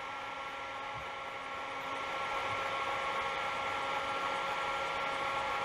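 Heat-engine demonstration apparatus running with a steady mechanical hum and hiss carrying several steady tones, getting slightly louder about two seconds in.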